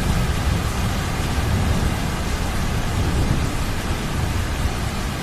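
Heavy rain falling steadily, with a low rumble of thunder beneath it.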